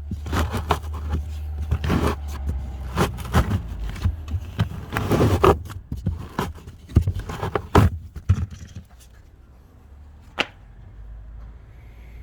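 Hard plastic parts scraping and clicking in quick irregular strokes as the cabin air filter and its housing cover are handled, over a low steady hum. After about eight and a half seconds it goes quiet except for one sharp click about ten seconds in.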